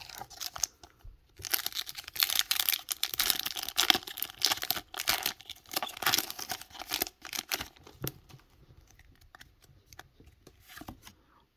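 Foil wrapper of a Pokémon card booster pack being torn open and crinkled: a dense run of crackling rustles lasting about six seconds, then thinning out to a few faint rustles.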